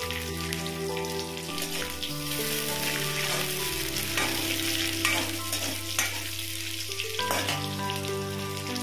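Small dried fish, onion and garlic sizzling in hot oil in a metal kadhai while a metal ladle stirs and scrapes the pan. Two sharper knocks of the ladle come about five and six seconds in.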